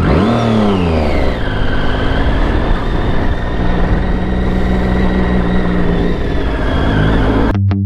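Motorcycle engine pulling away, its pitch climbing and dropping through quick gear changes in the first second and a half, then running steadily at cruising speed with road and wind noise.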